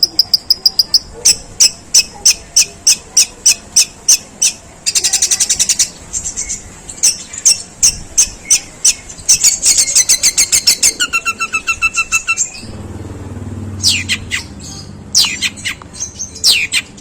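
Long-tailed shrike (pentet) singing a long, harsh song of fast sharp notes in a sparrow-like chatter, about three notes a second. There is a dense rattle about five seconds in, a few short held whistles, and falling sweeping calls near the end.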